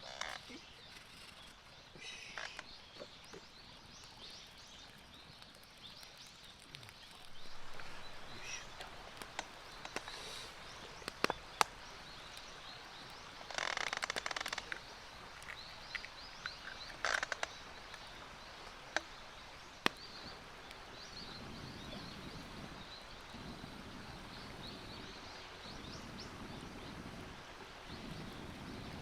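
Outdoor ambience with birds chirping now and then, a few sharp isolated clicks, and a short rustling burst about halfway through.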